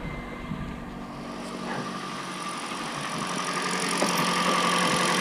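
2014 Kia Forte's four-cylinder engine idling steadily just after being started, growing gradually louder.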